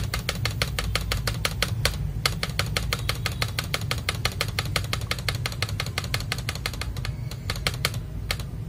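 Mechanical keyboard key fitted with a Holy Panda tactile switch, not yet lubed, pressed over and over in quick succession, about seven clacks a second, stopping shortly before the end.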